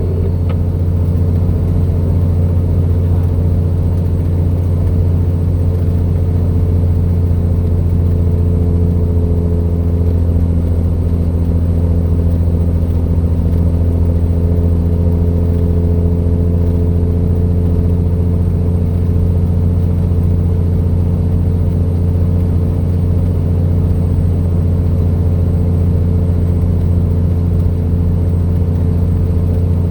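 Truck engine pulling a trailer, running steadily under load with a constant low drone, heard from inside the cab.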